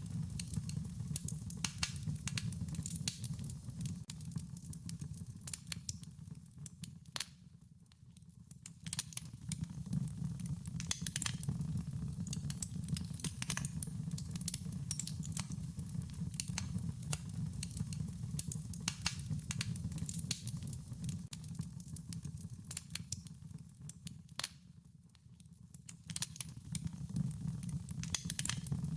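Wood fire crackling: a dense run of sharp snaps and pops over a steady low rumble from the burning. The fire goes quieter for a second or two twice.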